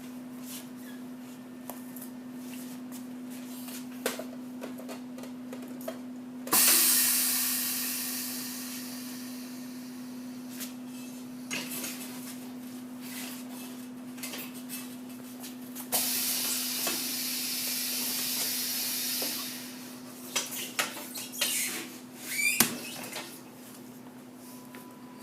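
Truck tire sidewall remover machine running with a steady hum. About six and a half seconds in a loud hiss starts suddenly and fades away, a second hiss holds steady for a few seconds, and a run of knocks and clatter follows near the end.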